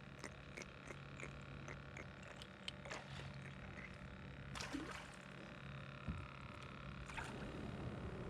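Faint rhythmic clicking or croaking, about three short calls a second, with a few louder calls among them, over a low steady hum.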